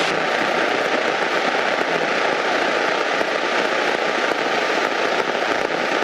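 Steady rushing, crackly cabin noise of a light Cessna on final approach, from the engine and propeller and the airflow over the airframe, with a faint steady tone under it.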